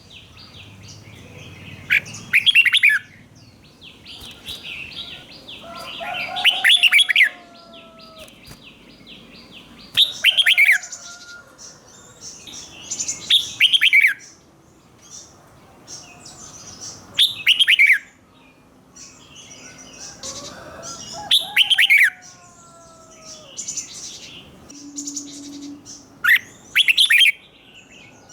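Red-whiskered bulbul singing: short loud phrases of quick sweeping whistled notes, one every three to four seconds, with softer chattering between them.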